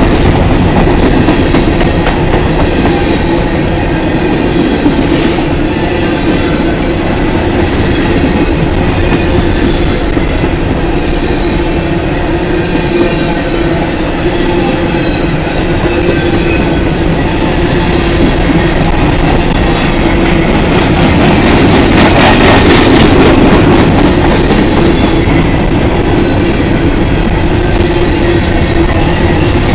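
A freight train of covered hopper cars rolling past close by: a steady loud rumble and clatter of steel wheels on the rails, with faint high squealing from the wheels. It swells louder about three quarters of the way through.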